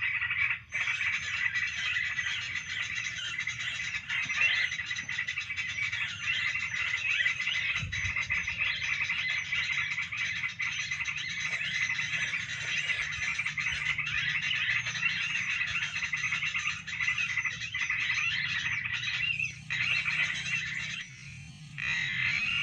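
Dense, continuous chorus of rapid, high chirping calls, many overlapping, that drops away briefly about a second before the end.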